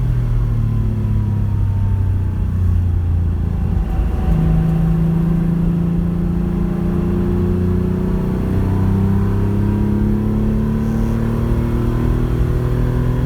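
Porsche 911 rally car's flat-six engine running under load, its pitch sagging over the first few seconds, shifting about four seconds in, then climbing slowly.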